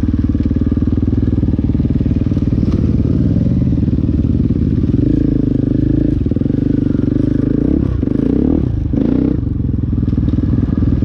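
KTM dirt bike engine running at low, steady revs while crawling along a rocky trail. The revs dip and pick up again a couple of times about eight seconds in as the throttle is worked.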